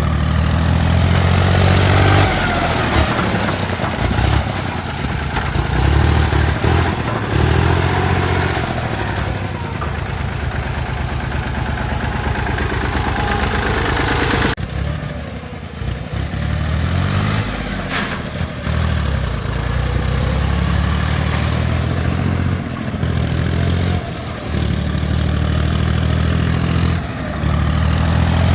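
John Deere 5310 tractor's three-cylinder diesel engine running, its pitch rising and falling as the engine speed changes, with a sudden break about halfway through.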